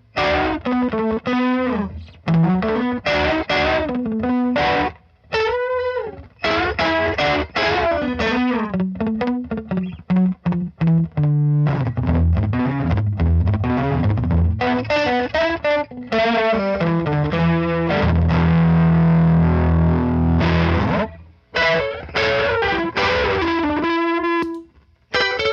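Distorted electric guitar played through the Big Ear Pedals Albie multi-effect on its first preset, slapback-style echoes with chorus modulation, in standard mode. Picked single notes and chords, with one chord left ringing for about three seconds roughly two-thirds of the way through.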